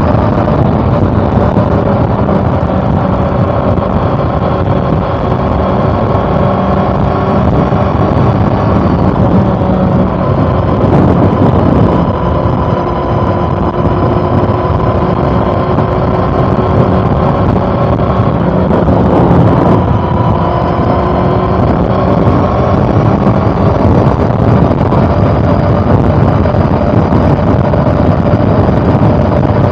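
Honda CB400 Super Four's inline-four engine running steadily under way, over a heavy rush of road and wind noise. Its tone breaks and shifts pitch briefly twice, about a third and two-thirds of the way through.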